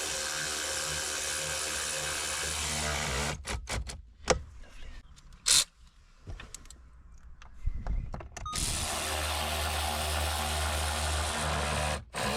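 Power drill running in two steady stretches of about four seconds each, with clicks and knocks of handling in the gap between them.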